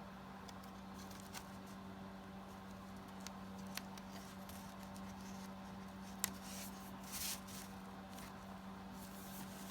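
Paper tags and cardstock being handled and sorted: scattered light taps and clicks, with a sharper one about six seconds in and a couple of brief rustles soon after, over a steady low hum.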